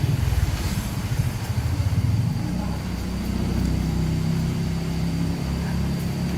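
An engine running steadily, with an uneven low rumble at first that settles into a steady hum after a couple of seconds.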